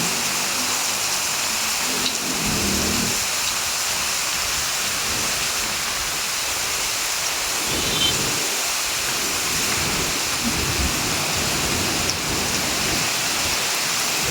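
Heavy rain falling in a steady, dense hiss, with a few soft low rumbles now and then.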